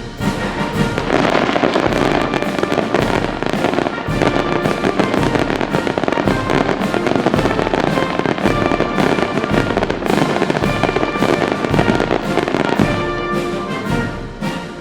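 Aerial fireworks going off in rapid succession, a dense run of bangs and crackling, heard together with orchestral music.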